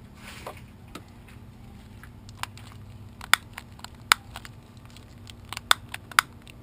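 A handful of sharp clicks and cracks, irregularly spaced and clustered in the second half, over a low, steady hum.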